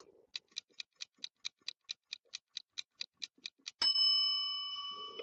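Quiz timer sound effect: a clock ticking quickly, about four to five ticks a second, then a bright bell ding about four seconds in that rings on and fades.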